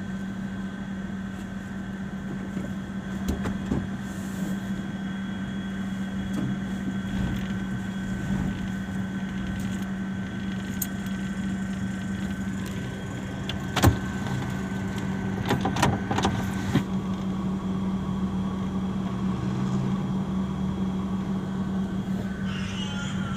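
Steady vehicle cabin hum from a car riding along, with a high faint tone that stops near the end and a few sharp knocks about two-thirds of the way through.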